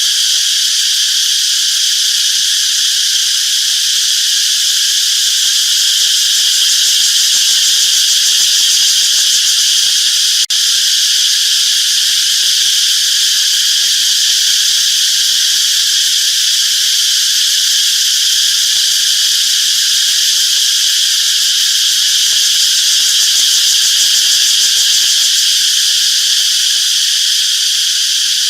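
Dense insect chorus: a loud, steady, high-pitched buzz that briefly cuts out about ten seconds in.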